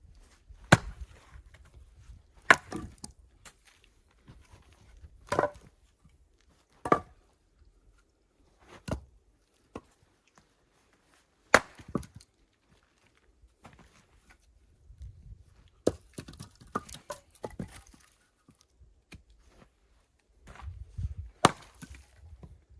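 Axe chopping firewood: a string of sharp, irregular wood strikes every second or few, some followed by splitting or splintering.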